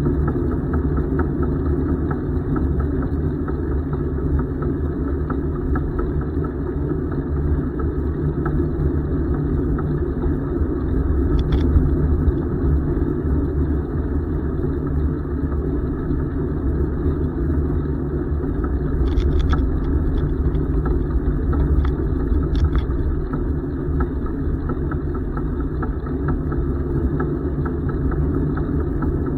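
Steady low rumble of wind on the microphone and tyre noise from a moving bicycle, with a few short high ticks near the middle.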